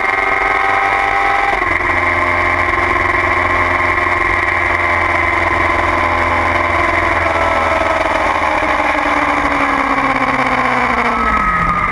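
2009 Kawasaki ZX-6R inline-four engine running hard under wind noise. About a second and a half in, the pitch drops suddenly as at a gear change, then the revs sink slowly, with two short dips in pitch near the end.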